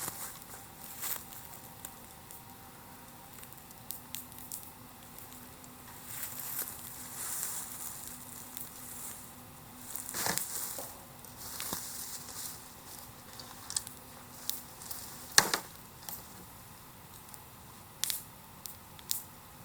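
Bonfire crackling, with scattered sharp pops (the two loudest about ten and fifteen seconds in) and spells of hissing.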